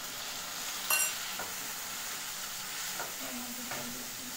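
Chopped tomatoes dropped into hot oil and frying onions in a nonstick kadhai, sizzling steadily while a spatula stirs and scrapes them. A sharp ringing clink about a second in.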